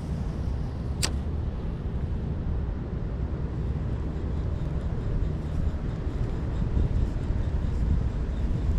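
Wind buffeting the microphone: a steady low rumble, with one sharp click about a second in.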